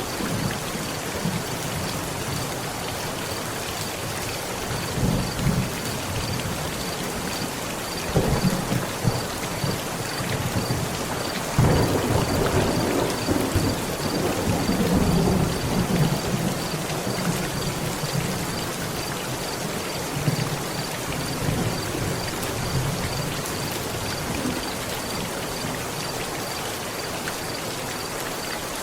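Steady heavy rain pattering on a tent, with thunder rumbling several times. A sharper thunderclap about twelve seconds in rolls on for several seconds.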